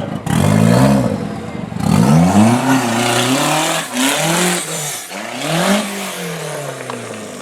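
Off-road competition 4x4 truck's engine revving hard in about four surges, the pitch climbing and dropping with each blip of the throttle.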